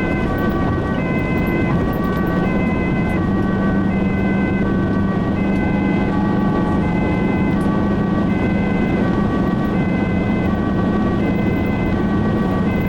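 Two-tone ambulance siren sounding continuously, switching between a high and a low note about every three quarters of a second, heard from inside the moving ambulance over steady engine and road noise.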